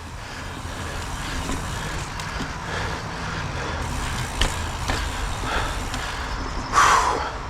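Mountain bike rolling along a dirt trail: a steady low rumble of tyres and wind on the camera's microphone, with a few sharp knocks from the bike. There is a short, louder rush near the end.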